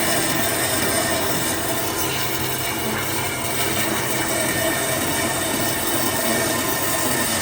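Steady drone of a workshop power tool or machine running continuously, a constant noisy hum with several steady tones in it.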